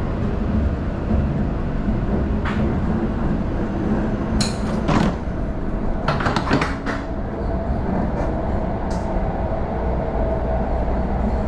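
Cabin noise of a Shinkansen bullet train moving out of the station at low speed: a steady low rumble of the running gear, broken by a few sharp clicks and knocks, mostly in the middle.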